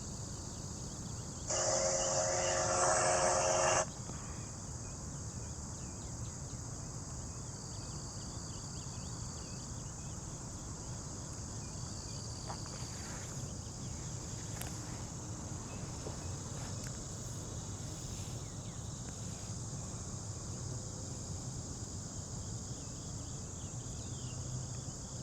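Crickets and other insects chirring steadily, with a low background rumble. Near the start, a loud pitched sound lasts about two seconds and stands out above the insects.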